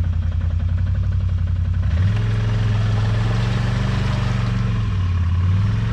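ATV engine running while the quad is stuck in thick mud and being winched out; the revs rise about two seconds in, hold, and drop back near the end.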